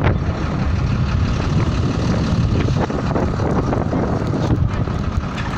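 Strong wind buffeting the microphone: a steady low rumble with gusty crackling.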